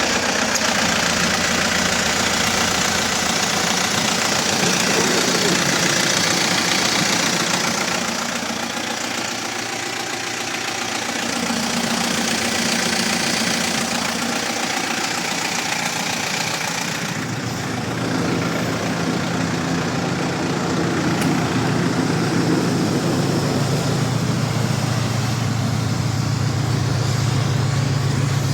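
Mitsubishi bus running steadily at idle. About seventeen seconds in, the high hiss eases and a lower hum grows louder.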